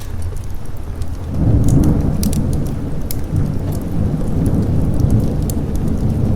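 Thunder rumbling, rising in a swell about a second and a half in and rolling on, over steady rain with scattered sharp crackles.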